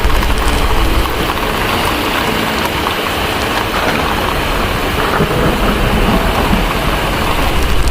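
Heavy rain in a steady rush, with a deep rumble of distant thunder underneath. The rumble eases about a second in and swells again near the end.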